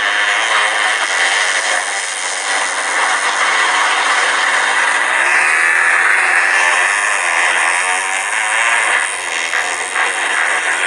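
Motocross bike engines running hard, their pitch rising and falling as the riders rev and shift around the track.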